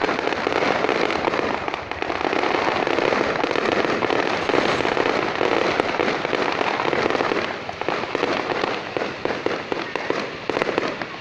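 Fireworks going off in a dense, continuous barrage of crackling bangs and pops, thinning to more separate pops after about seven seconds.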